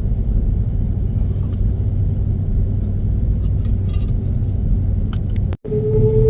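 Steady cabin rumble of an Airbus A330-300 with its Rolls-Royce Trent 772B-60 engines running, heard from inside with a few light rattles. About five and a half seconds in the sound cuts out for an instant and a slowly rising engine whine begins.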